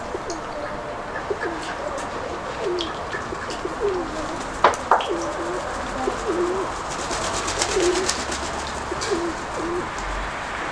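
Pigeons, Nikolaev high-flyers, cooing again and again in short, low coos. About halfway there are two sharp clicks close together, and a little later a quick run of faint ticks.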